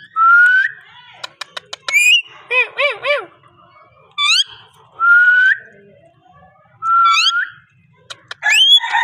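Ringneck parakeet whistling and chattering: a few rising whistled notes, a quick run of clicks, short warbled notes and sharp upward-sweeping chirps, one after another with short gaps.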